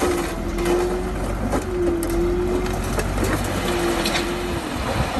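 Komatsu crawler bulldozer's diesel engine running, with scattered clanks from the machine. A held mid-pitched tone sounds three times, about a second each.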